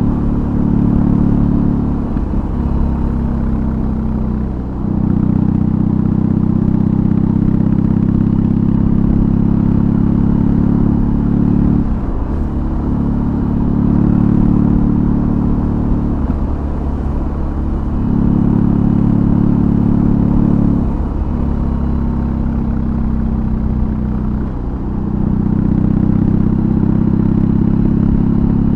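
BMW R18's big air/oil-cooled boxer twin through a custom exhaust, running under way on the road. Its note dips and changes pitch about six times, as the engine speed changes between steady stretches.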